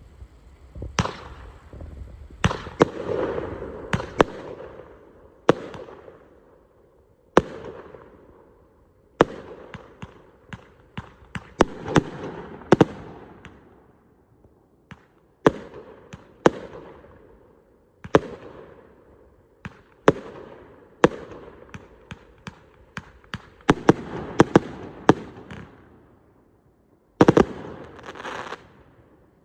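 A 25-shot Jailbird firework cake firing its shots of salutes, willows and red glitter: a sharp bang every second or two, each trailed by a fading crackle, with several bangs close together near the end.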